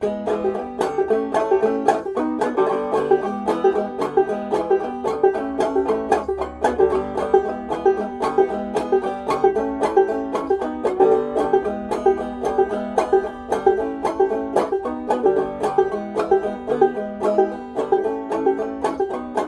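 Banjo played clawhammer style: a steady, driving run of sharp plucked notes.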